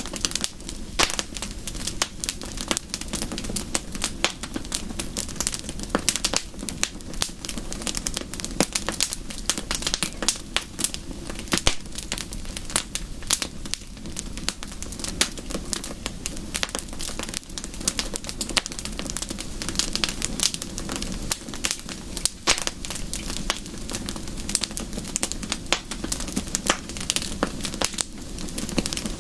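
Wood fire crackling, with dense, irregular pops and snaps over a steady low hiss.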